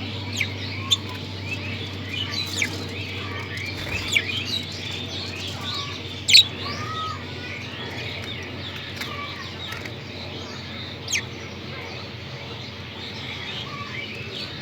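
Many budgerigars chattering, with dense overlapping warbles and chirps. A few sharper, louder chirps stand out, the loudest about six seconds in.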